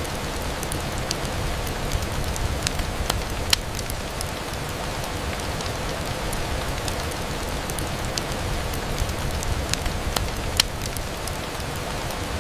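Steady rain on a window, with scattered sharp ticks and pops through it. The loudest pops come about three and a half seconds in and near ten and a half seconds.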